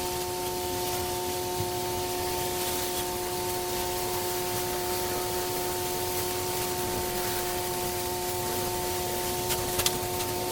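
Pressure-washing rig running at a steady pitch, with the constant hiss of a water spray. A few sharp clicks come near the end.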